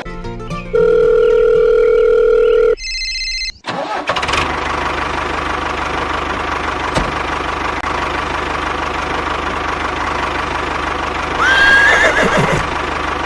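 A loud steady electronic tone for about two seconds and a short higher beep, then an engine-like running sound that carries on steadily with a low hum. A brief rising call cuts in near the end.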